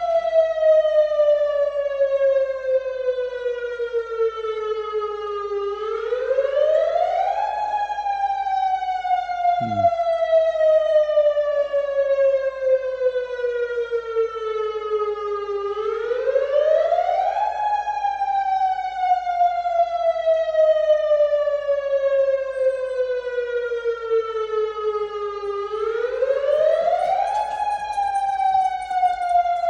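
Outdoor tsunami warning siren wailing in a drill test: the pitch rises quickly over about two seconds, then falls slowly for about eight, in a cycle that repeats about every ten seconds, rising three times.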